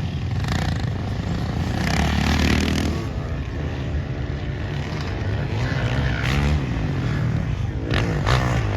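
Motocross dirt bike engines running on the track, their pitch rising and falling as riders open and close the throttle. A couple of sharp knocks come near the end.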